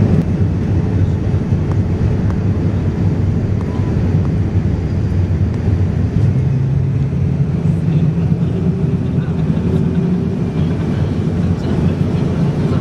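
Boeing 787-9 jet airliner heard inside the cabin: a steady low rumble of engine and airflow noise, with a droning tone that shifts up a little about halfway through.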